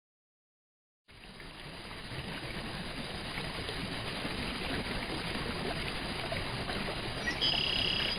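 Flowing river water, a steady rushing that fades in about a second in after a silent start. A brief high tone sounds near the end.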